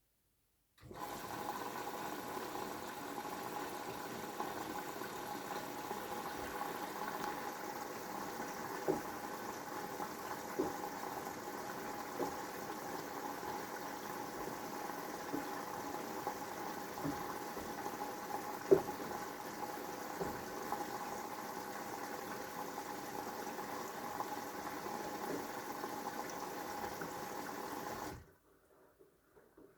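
Siemens WM14VG93 washing machine taking in water through its inlet valve at the start of the wash: a steady rushing hiss with a hum. It switches on suddenly about a second in and cuts off sharply near the end, with a few light knocks along the way.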